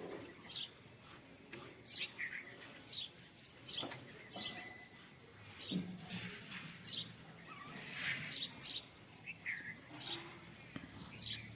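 Small birds chirping: short, sharp, downward-sliding cheeps, about one a second.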